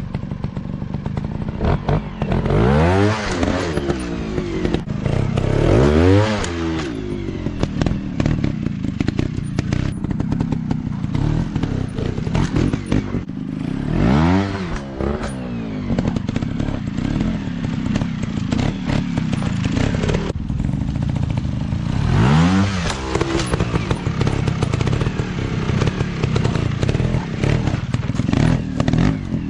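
Dirt bike engines running, revving up and back down in repeated swells every few seconds, with a steady engine drone between the revs.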